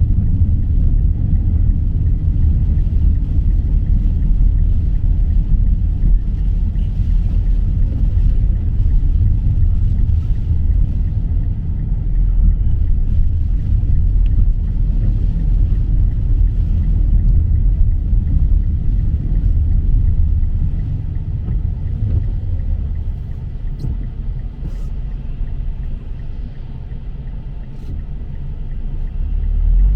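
Steady low rumble of a motor vehicle driving, easing off for several seconds after about twenty seconds in and building again near the end.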